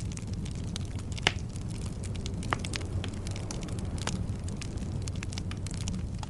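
Wood fire burning in a fireplace: a steady low rumble of flames with frequent crackles from the burning logs and a few louder pops, the sharpest about a second in.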